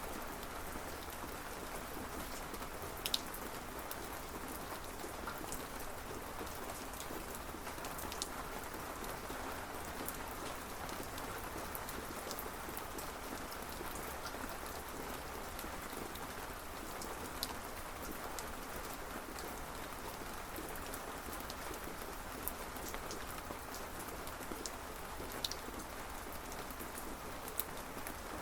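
Steady rain falling on a surface, with a few sharp drops ticking out of the patter now and then.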